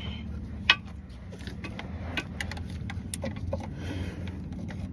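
Scattered metallic clicks and knocks of hand tools (ratchet, socket and extensions) being handled against metal while working at a car's starter, over a steady low hum; one sharp click stands out under a second in.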